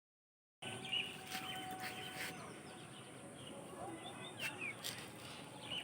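Faint outdoor background with scattered short bird chirps and calls.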